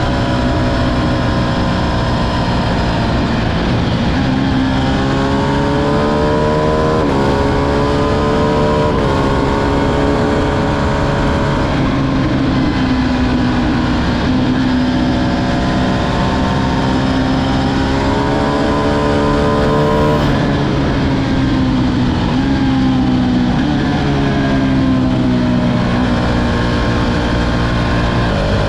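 Ducati Streetfighter V2's L-twin engine under way, its pitch climbing under acceleration, breaking at gear changes and falling back as it slows, several times over.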